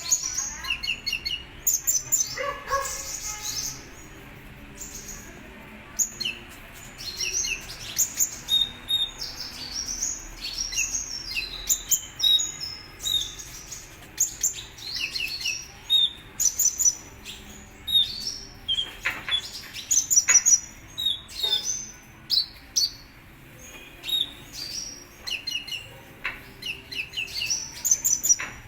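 Kolibri ninja sunbird singing vigorously: rapid runs of sharp, high chirps and short trills with only brief pauses between phrases.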